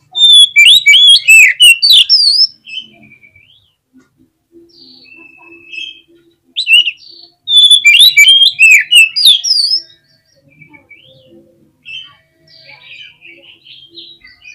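Oriental magpie-robin (kacer) singing: two loud bursts of rapid, sweeping whistled notes about two and a half seconds long each, one at the start and one about halfway, with softer, quieter phrases between and near the end.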